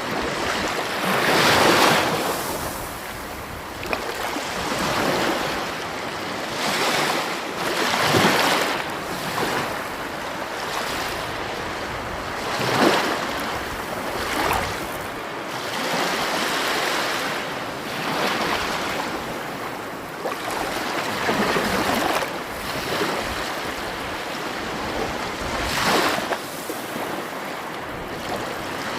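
Sea waves washing onto a shore, surging every few seconds between softer stretches of steady surf hiss.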